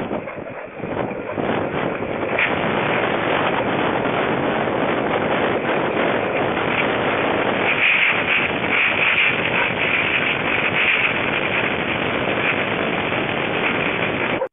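Storm wind, believed to be a tornado, blasting as a loud, dense rushing noise over a CCTV camera's microphone. It builds over the first couple of seconds, then holds steady with gustier stretches past the middle.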